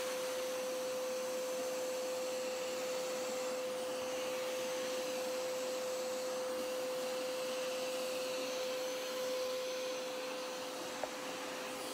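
Hoover Power Scrub Elite Pet carpet cleaner running steadily: a constant motor whine over the rush of its suction, with one small click near the end.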